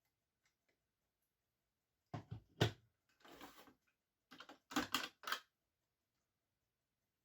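Two short clusters of sharp clicks and light clatter from small mechanical parts and tools being handled, with a brief scraping rush between them.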